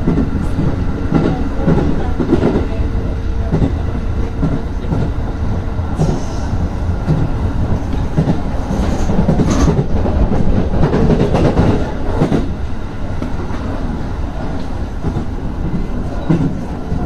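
Aonami Line 1000 series electric train heard from inside its cab while running along the track: a steady rumble from the running gear, with irregular clacks as the wheels pass over rail joints and points.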